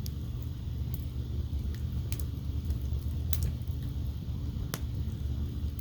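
Campfire crackling, with sharp pops about once a second over a steady low rumble.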